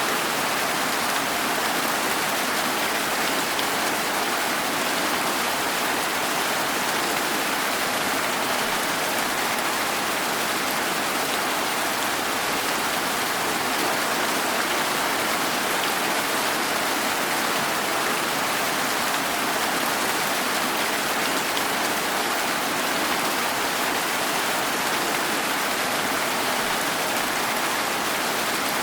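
Steady rain falling, an even hiss of drops without distinct drips or thunder.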